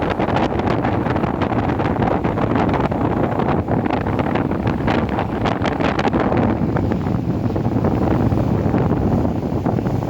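Wind buffeting the microphone from a moving train, a steady rushing with crackles, over the train's running noise.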